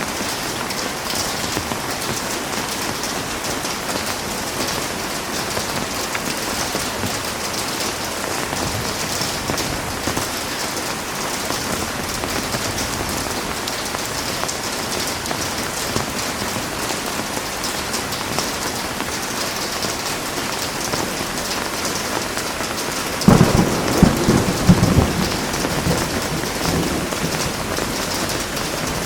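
Heavy rain falling steadily as an even hiss. About 23 seconds in, a clap of thunder breaks in with a low rumble that dies away over about three seconds.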